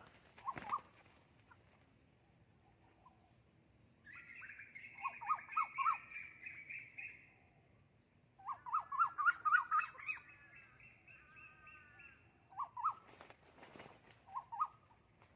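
Bird calls, likely from a decoy junglefowl rooster: short calls of quick repeated notes, in two longer bouts about four and eight seconds in, with a higher steady trill sounding over each bout. A few short double notes come at the start and near the end.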